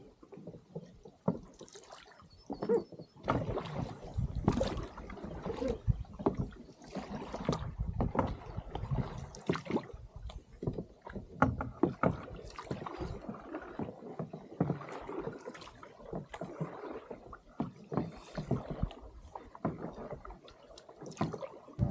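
Canoe paddling: irregular paddle splashes and dips, with knocks and bumps against the hull.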